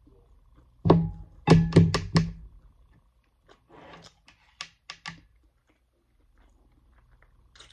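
Chewing a mouthful of food close to the microphone: a quick run of loud mouth smacks about a second in, a breath a little later, then a few lighter smacks.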